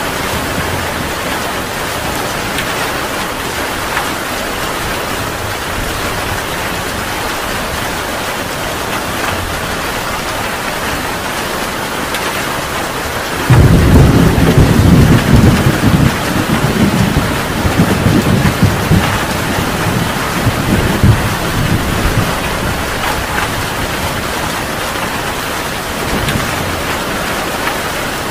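Heavy rain falling steadily. About halfway through, a clap of thunder breaks in suddenly, the loudest sound here, and rumbles for several seconds before fading back under the rain.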